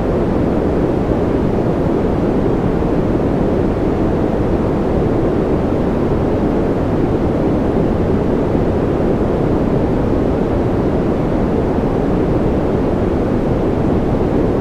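Steady, unbroken noise for sleep, deep and muffled, with most of its weight low and little hiss up top. It stays the same throughout, with no patter of separate drops.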